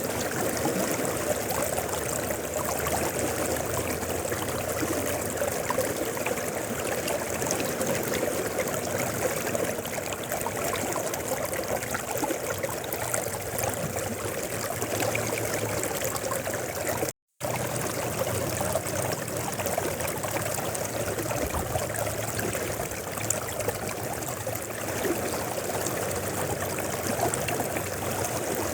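Mountain river flowing steadily, a continuous rushing and trickling of water. A brief gap of silence cuts in a little over halfway through.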